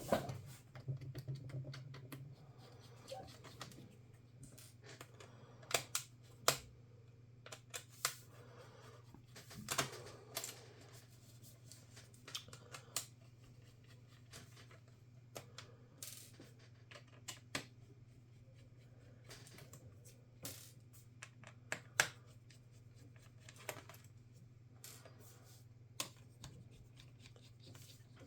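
Scattered sharp clicks and taps of small tools and plastic parts being handled while a laptop is taken apart, irregular and a few seconds apart, over a steady low hum.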